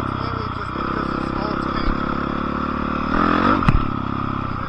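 Dirt bike engine running steadily, revving up about three seconds in, with a sharp knock just after the rev.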